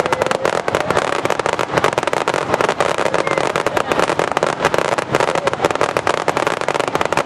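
Aerial fireworks crackling close by: a dense, unbroken patter of rapid small reports, many a second, with a faint steady whistle running under it for several seconds.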